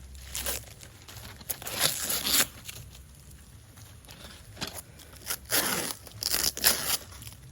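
Packing tape and wrapping being torn and crumpled, in several separate rips, the longest and loudest near the end.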